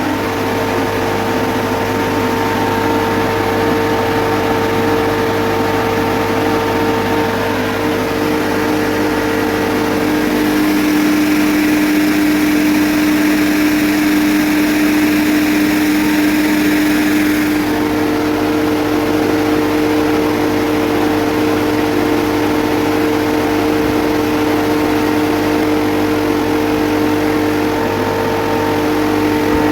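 Refrigerant recovery machine running steadily, its compressor motor giving a constant hum. For several seconds in the middle a rushing hiss joins it, then fades back out.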